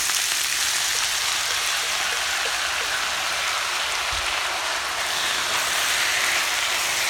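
Chopped red onions sizzling steadily in hot oil in a large steel wok.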